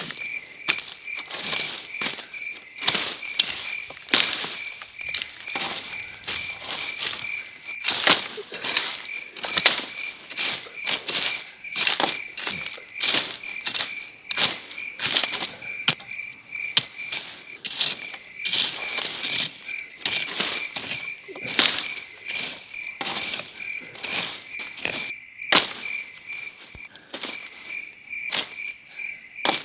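An insect chirping in a rapid, even pulse on one high pitch, with frequent irregular short knocks and scrapes over it.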